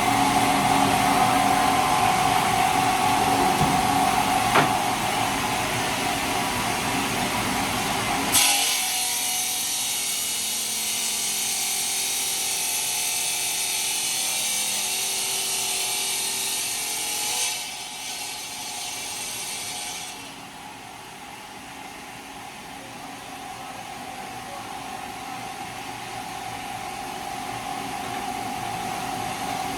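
Stone-working machinery running. A steady machine hum with a held tone gives way abruptly, about eight seconds in, to a high hissing, saw-like grind. That stops suddenly at around twenty seconds, leaving a quieter, even machine noise that slowly grows louder.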